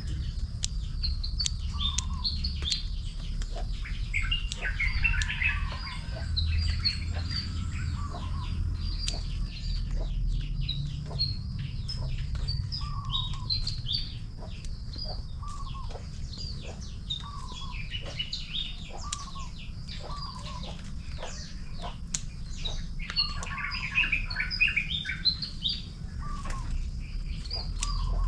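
Birds chirping and calling all around. One repeats a short curved note every second or two, with bursts of dense twittering about four seconds in and again near the end. Short sharp clicks and a low rumble run underneath.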